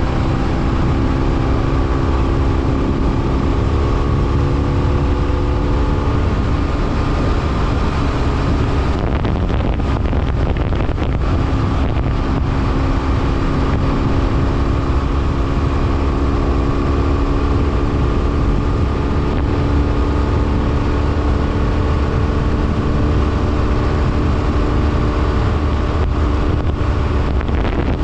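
BMW F800R's parallel-twin engine running while riding, under a heavy rumble of wind on the microphone. The engine note fades for a few seconds about ten seconds in, then comes back and rises gently.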